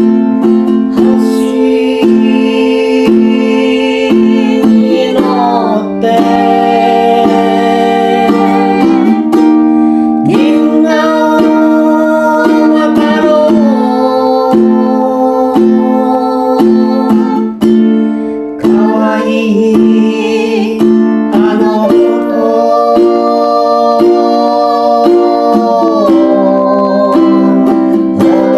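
Acoustic music: a plucked string instrument picked in a steady rhythm, under a slow melody of long held notes that slide between pitches.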